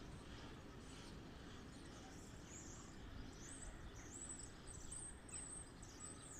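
Faint outdoor background noise with small birds chirping in short, high-pitched calls that repeat from about halfway through.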